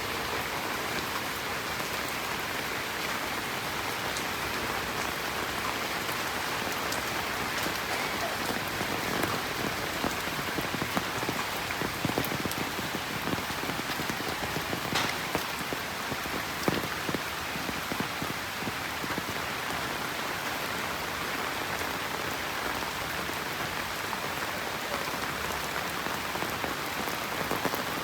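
Steady monsoon rain falling on the road and trees, a dense hiss with many small drops ticking, a few louder drops standing out.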